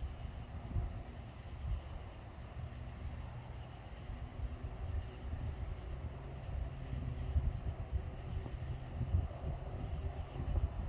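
Steady high-pitched chorus of night insects, with a low, uneven rumble beneath it.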